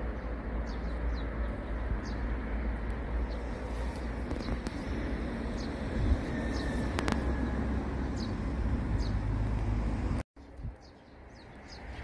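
Small birds giving short high chirps now and then over a steady low rumble and hiss of outdoor background noise. The background drops out abruptly about ten seconds in and returns quieter.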